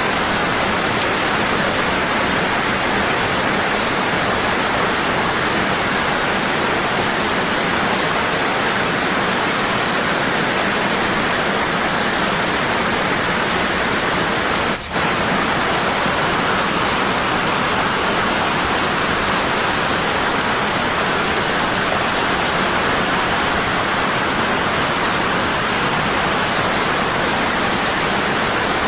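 Waterfall rushing, a strong and constant fall of water. A brief dip in level about halfway through interrupts it for a moment.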